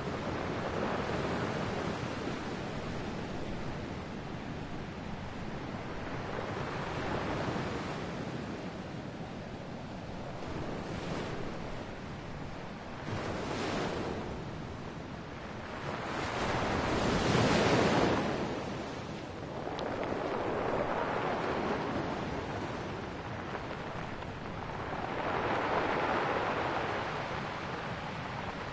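Ocean waves breaking and washing on a shore, the surf swelling and ebbing every few seconds, loudest about two thirds of the way through.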